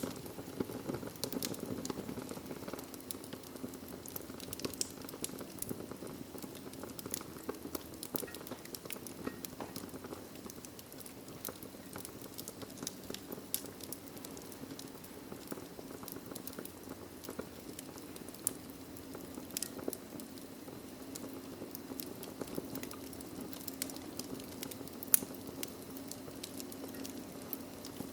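Wood fire burning in a fireplace: a steady low rush of flames with frequent small crackles and pops, and one sharper pop near the end.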